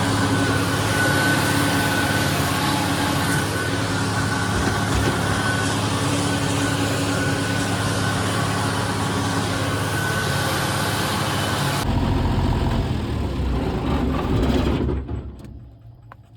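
Tractor engine running with a hay mower working: a steady mechanical drone with a faint high whine. About twelve seconds in, the sound changes suddenly and loses its hiss. Near the end it dies away.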